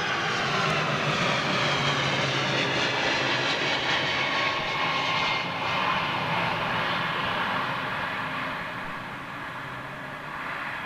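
Airbus A310 jet airliner passing close by, its engines a loud many-toned whine and rumble that slides down in pitch as it goes past, then slowly fades.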